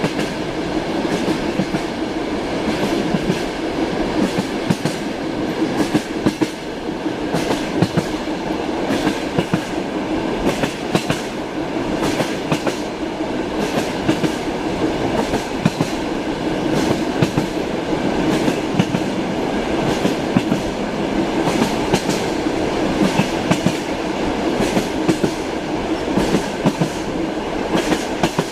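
Moving passenger train heard from inside a carriage: a steady rumble with the wheels clicking over the rail joints again and again, the clicks coming in irregular clusters.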